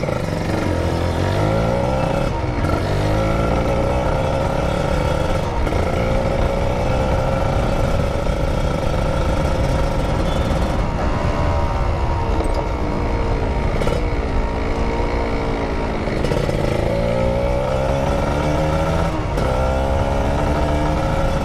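Sport motorcycle engine under way, accelerating with the revs climbing and dropping back at each gear change, holding steady for a few seconds in the middle, then easing off and climbing through the gears again.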